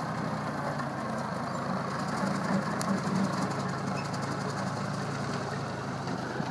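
Ford tractor engine running steadily with the PTO engaged, driving a brush hog rotary cutter.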